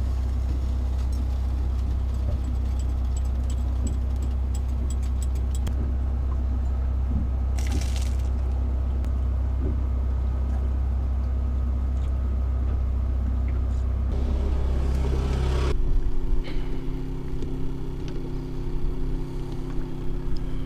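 A steady low machine hum, which stops suddenly a few seconds before the end. It gives way to gusty wind buffeting the microphone.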